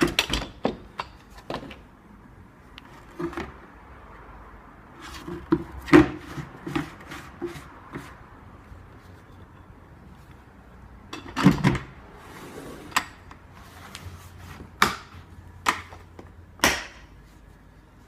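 Scattered clicks and knocks of hard parts being handled, a few louder clunks among them, with no motor running.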